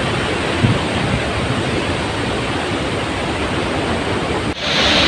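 Steady rushing roar of Athirappilly Falls in heavy rainy-season flow, with wind buffeting the microphone. About four and a half seconds in it cuts abruptly to a brighter, hissier rush of water.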